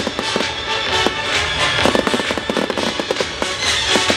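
Fireworks bursting and crackling in a dense, rapid string of bangs and pops, with music playing loudly underneath.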